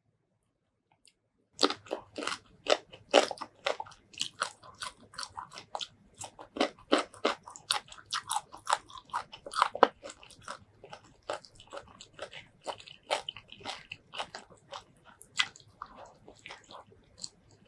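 Close-miked mouth sounds of someone biting and chewing a mouthful of spicy shrimp curry with crunchy petai (stink beans). Dense, irregular crunches and wet chewing start about a second and a half in and keep going.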